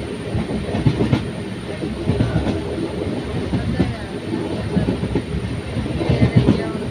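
A train running on the rails, its wheels and carriages rattling and clattering steadily with irregular knocks.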